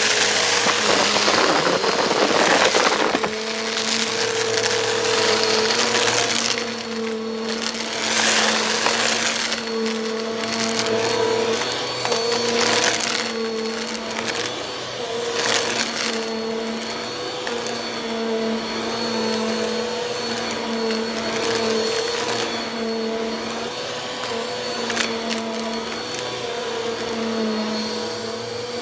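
Bissell vacuum cleaner running with a steady motor hum. A loud rush of air fills the first three seconds, and shorter rushes come and go after that.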